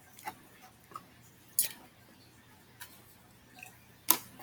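A person chewing soft food close to the microphone: scattered short, wet mouth clicks and smacks, the sharpest a little after one and a half seconds and again near the end.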